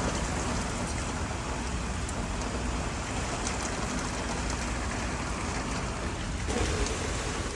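Steady rain falling, with the tail of a thunder rumble dying away at the start.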